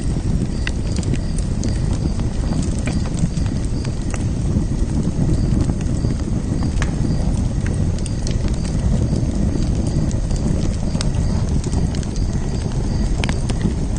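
Fire burning in a fire pit: a steady low rumble of flames with scattered sharp crackles and pops.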